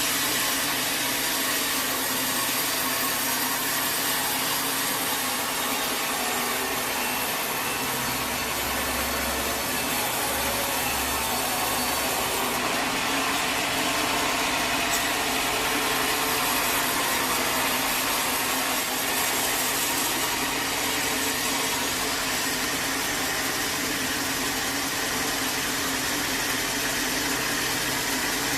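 Sawmill saw cutting through a teak log: a steady, dense machine noise that runs on without a break.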